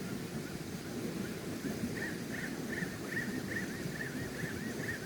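Steady rain and wind noise. From about two seconds in, a bird gives a fast run of short chirping notes, about three a second.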